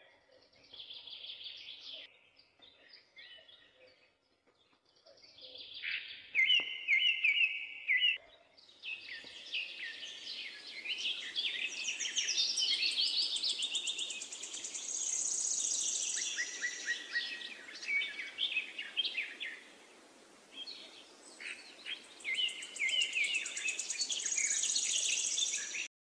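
Birds chirping and singing, many short overlapping calls and trills, sparse at first and growing dense about a third of the way in, over a steady background hiss.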